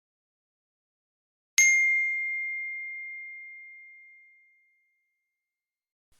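A single bell-like ding, struck once about a second and a half in, ringing out in one clear high tone that fades away over about three seconds.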